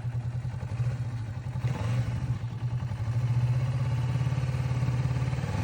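Motorcycle engine running at low speed, steady, a little louder from about halfway through.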